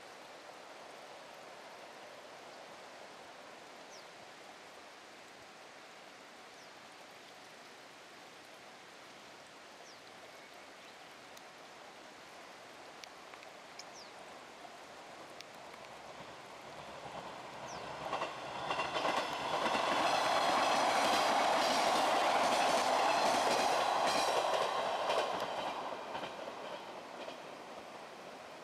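JR 183 series electric express train approaching and passing: its running noise builds over the first half, is loudest for about six seconds a little past the middle with a rapid clatter of wheels over rail joints, then fades away.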